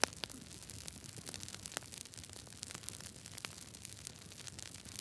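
Fireplace crackling softly: irregular sharp pops and snaps over a faint steady hiss.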